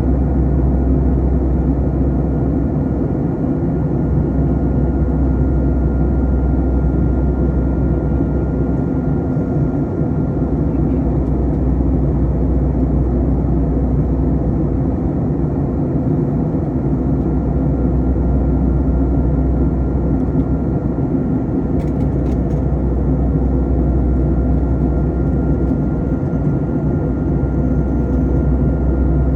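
Airbus A321 cabin noise in descent: a steady, deep drone of engines and airflow heard from a passenger seat, with a thin steady whine above it. A couple of faint clicks come about two-thirds of the way through.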